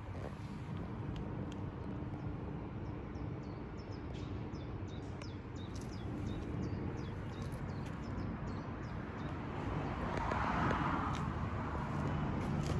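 Outdoor ambience: a low steady hum with short bird chirps in the middle, and a swelling rush of noise near the end.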